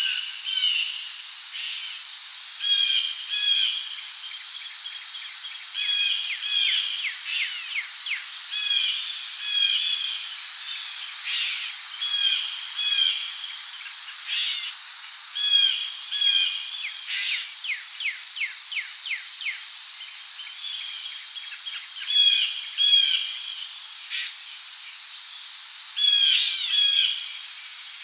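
Rainforest ambience: a steady high-pitched insect drone, with birds calling short chirps over it again and again, often in quick pairs.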